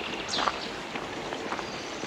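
Footsteps along a forest trail path: a series of irregular steps.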